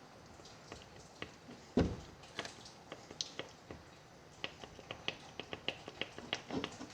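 Irregular clicks and knocks from the axle of a 2011 Can-Am Outlander ATV, with one heavier knock about two seconds in and a quicker run of clicks later on: the weird axle noise the owner is asking about.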